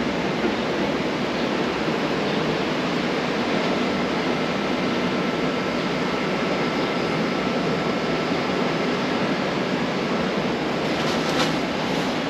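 Steady rushing noise of wind buffeting the microphone, with the wash of Gulf surf beneath, unbroken throughout.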